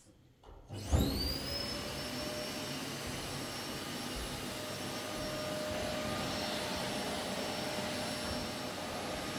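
Vacuum cleaner switched on about a second in, its motor whine rising quickly and settling into a steady hum and hiss as it runs.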